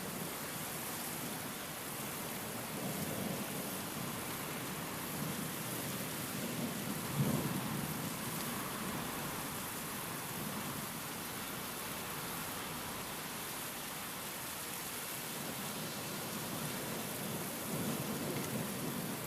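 Steady heavy rain and wind with low, rolling thunder rumbles. A short, sharper thunderclap comes about seven seconds in, and more rumbling builds near the end.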